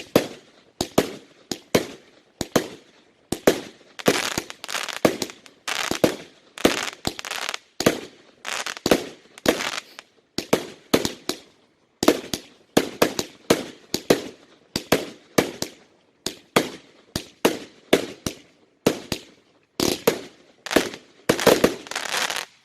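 Fireworks going off in quick succession: a long run of sharp bangs, about two a second, some followed by short crackles, stopping abruptly at the end.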